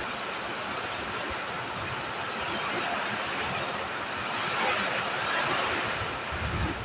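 Steady rushing noise of a windy storm, with low buffets of wind on the microphone near the end.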